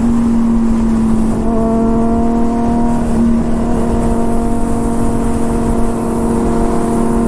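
Honda CBR600RR's inline-four engine holding steady revs while cruising, with heavy wind rumble on the microphone.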